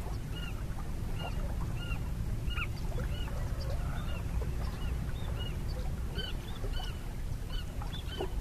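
Birds calling over and over, short rising-and-falling notes about twice a second, over a steady low rumble.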